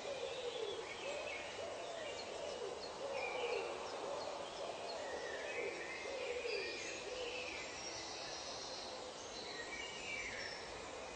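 Wild birds calling in a nature ambience. A low, arching note repeats again and again and stops about two-thirds of the way through, while higher, shorter calls sound above it over a steady hiss.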